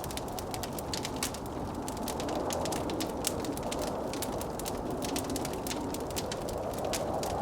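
Wood fire crackling with many sharp pops and snaps, over a steady low rush of blizzard wind.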